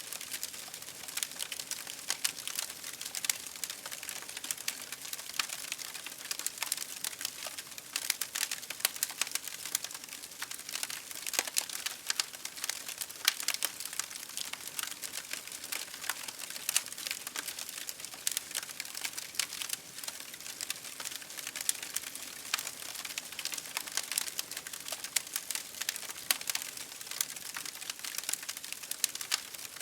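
Campfire crackling: a steady, dense stream of small irregular snaps and pops from the burning wood, with a few louder pops scattered through.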